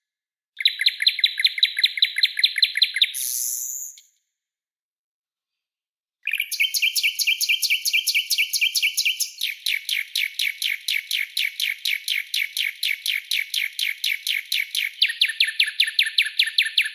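Songbird birdsong for bird training: fast runs of sharp repeated notes ('tembakan'). A trill of a few seconds ends in a short rasping burst; after a gap of about two seconds, a long unbroken trill follows, shifting lower in pitch about a third of the way through.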